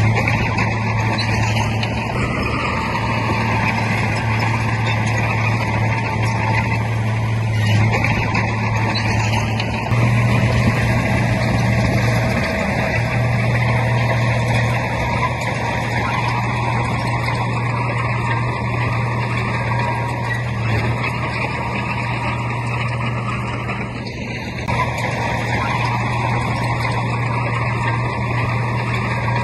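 Heavy diesel earthmoving machinery running steadily with a low engine drone, which gets a little louder about ten seconds in.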